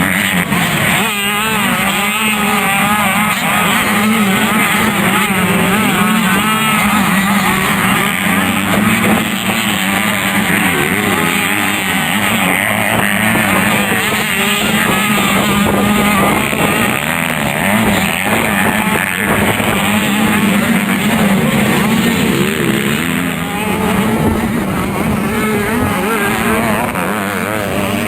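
A pack of 85cc two-stroke motocross bikes running hard, many engines revving up and down over one another, with a steady drone underneath.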